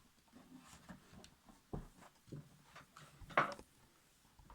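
A few faint knocks and handling noises in a small room, the loudest about three seconds in.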